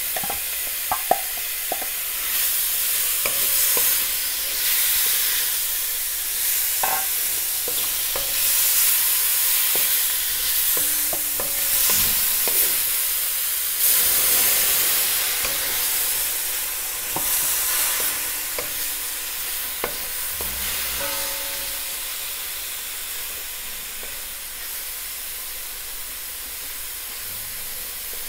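Mushrooms sautéing in oil in a metal pan: a steady sizzle, stirred and scraped with a wooden spatula that knocks now and then against the pan and bowl. About halfway through, a splash of water goes in to keep the pan from burning, and the sizzle swells.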